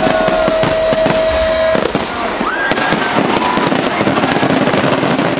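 Aerial firework shells bursting in a finale: dense, rapid crackling and popping with many sharp bangs.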